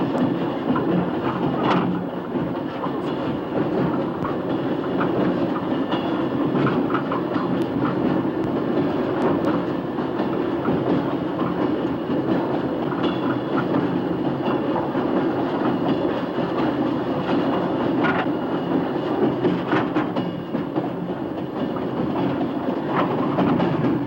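Moving freight train, heard from aboard: a steady rumble with wheels clicking over rail joints.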